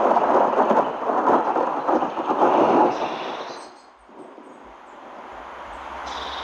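Thunder rumbling loudly for about three seconds, then dying away.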